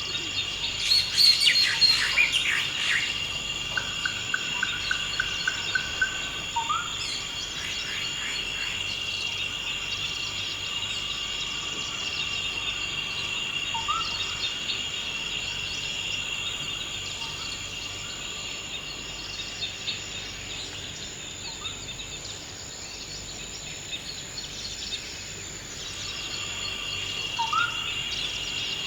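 Forest ambience: a steady insect drone of crickets or cicadas, with birds calling over it, a burst of chirps in the first few seconds, a quick run of repeated notes shortly after, and scattered short rising chirps later on.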